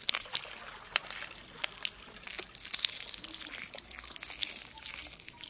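Shampoo lather being worked through hair close to a 3D-audio microphone: a steady stream of small, high wet crackles and pops from the foam.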